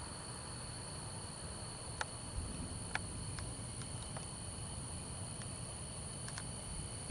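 Evening insect chorus, typical of crickets: a steady high-pitched chirring that does not let up, with a few faint clicks.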